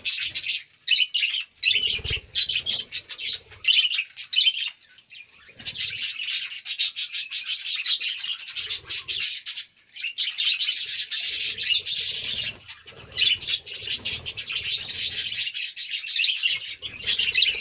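A colony of budgerigars chattering: a dense, continuous stream of rapid high chirps and warbles, broken by a few brief lulls. Low pigeon coos sound now and then underneath.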